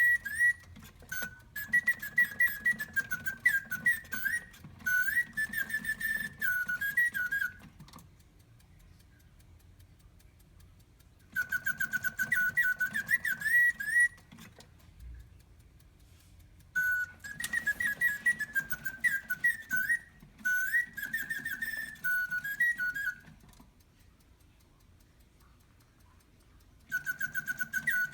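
Reuge singing-bird automaton's bellows-driven whistle warbling mechanical birdsong in phrases of several seconds, with pauses of about three seconds between them. A faint whir of the mechanism runs under each phrase.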